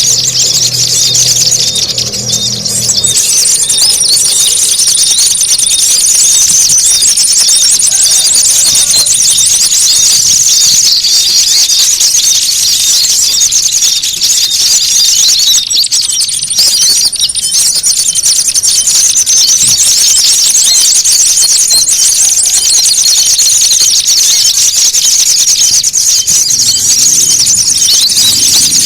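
Dense, loud chorus of many small songbirds chattering and calling at once, a high-pitched agitated bird-lure mix of fighting calls meant to draw small birds in. A thin steady high whistle comes and goes within it.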